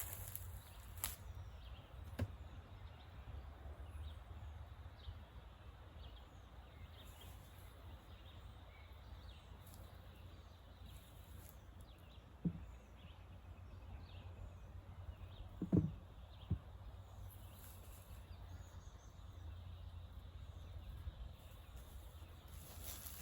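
Quiet outdoor ambience: a steady low rumble with faint, scattered bird chirps, broken by a few sharp knocks, the loudest a cluster about two thirds of the way through.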